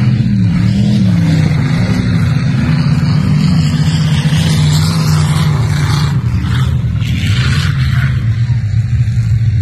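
V8 race car engine running hard under load, its note rising and falling as the throttle comes on and off.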